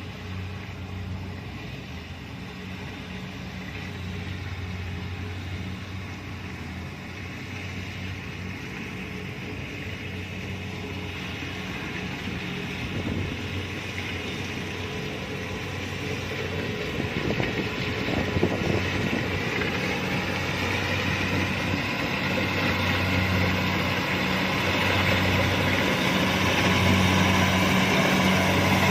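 Kubota DC-70 Plus rice combine harvester's diesel engine and threshing machinery running steadily under harvesting load, with a constant low hum that grows gradually louder.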